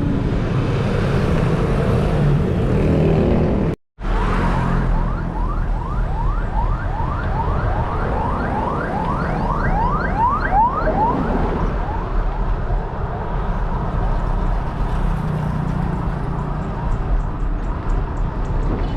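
Steady wind and road noise on a moving bike. For several seconds, starting a few seconds in, a siren yelps: a fast run of rising whoops, about three a second.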